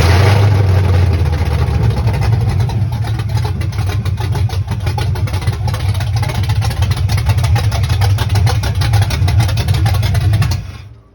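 Small-block Chevy V8 running on open headers with no exhaust system, a loud, rapid, steady exhaust pulse at idle. It cuts off suddenly near the end.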